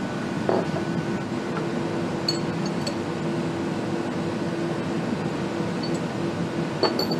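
Factory-floor machine noise: a steady hum with a low droning tone, and a few light metallic clinks, one early, two in the middle and one near the end.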